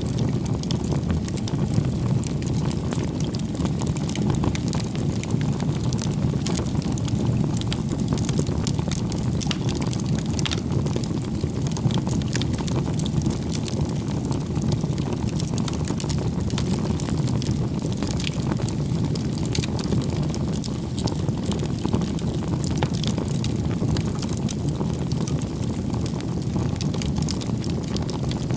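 Wood bonfire burning: a steady low rushing noise with frequent small, scattered crackles of burning wood.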